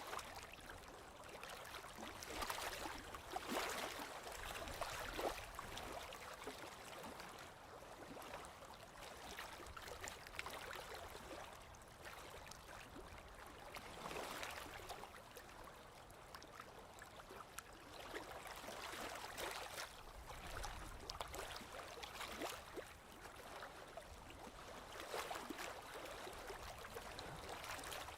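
Small waves lapping on a lake shore: a soft, splashing wash of water that swells and eases every few seconds.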